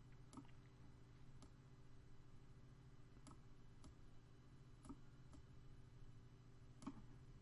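Faint computer mouse clicks, about seven at irregular intervals, over a low steady hum.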